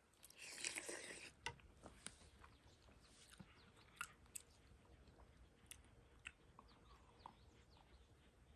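A person eating ramen up close: a noisy burst of about a second near the start, then faint scattered chewing clicks.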